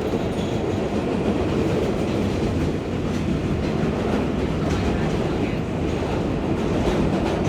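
R142A subway car running at speed, heard from inside the car: a steady rumble of wheels on rail with occasional faint clicks from the track.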